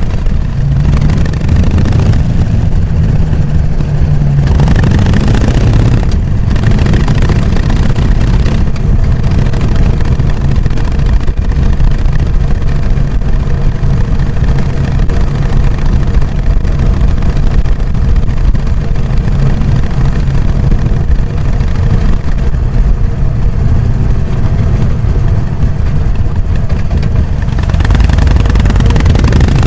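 Harley-Davidson Sportster XL883N Iron's air-cooled V-twin running through its stock exhaust while being ridden, a steady deep engine sound.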